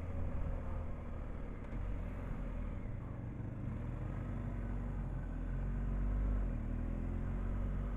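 Motorcycle engine running steadily on the move, with wind and road noise; the engine gets slightly louder about six seconds in.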